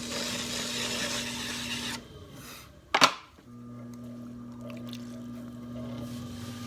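Electric potter's wheel humming steadily, with a hissing rush over it for the first two seconds. The hum then cuts out, a single sharp knock comes about three seconds in, and the wheel hum starts again.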